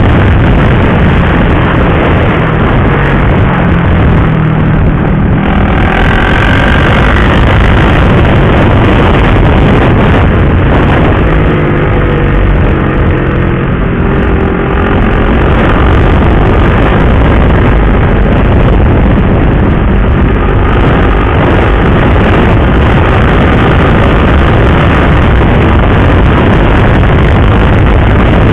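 Motorcycle riding at speed, heard from the rider's helmet camera: constant heavy wind noise over the engine. The engine note rises and falls with throttle changes, about 6 seconds in and again around 11 to 15 seconds.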